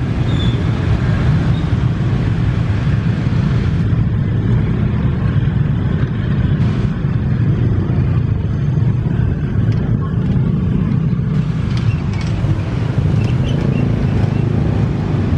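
Loud, steady low rumble of passing vehicles, with a few faint ticks near the end.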